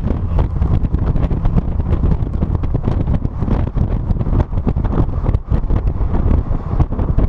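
Heavy wind buffeting on a trunk-mounted GoPro's microphone on a moving car, a loud, uneven rumble with constant gusty thumps.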